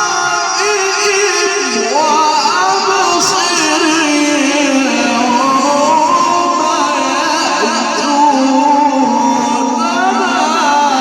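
Male Quran reciter in a long, drawn-out melodic phrase of murattal-style tajweed recitation, the voice held and ornamented with wavering pitch, heard through a loudspeaker sound system.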